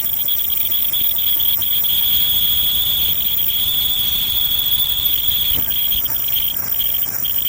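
Insects chirring in one continuous high-pitched drone that flutters briefly now and then.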